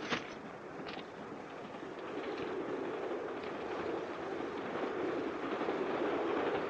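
Railway carriage running noise heard from inside a moving mail train: a steady rumble of wheels on rails that grows slowly louder, with a brief click at the start.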